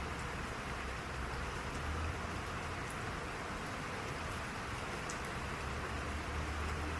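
Steady rain falling: an even hiss of rain on surfaces with a few sharp drop ticks now and then and a low rumble underneath.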